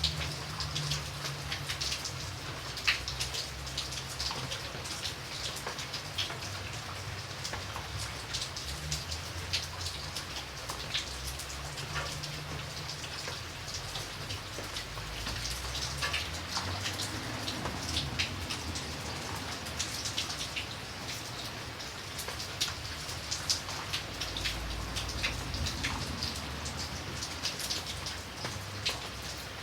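Steady rain: a constant wash with many sharp ticks of individual drops striking, over a low rumble underneath.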